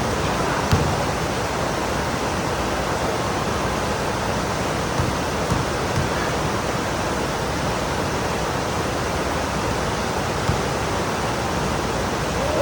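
Pouring rain: a steady, even hiss with a few faint taps.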